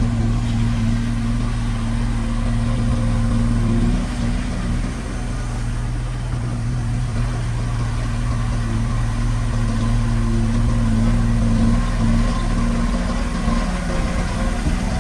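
Heavy diesel engine running steadily at an even speed, a low constant hum.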